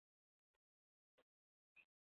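Near silence, broken by three faint, very short clicks or taps about half a second apart.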